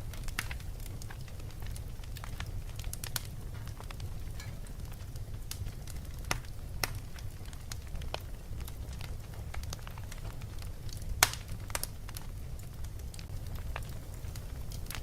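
Fireplace crackling: irregular sharp pops and snaps, one louder pop about eleven seconds in, over a steady low rumble.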